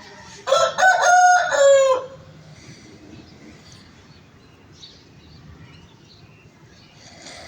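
A rooster crowing once, a cock-a-doodle-doo about a second and a half long that starts half a second in and falls in pitch at its end.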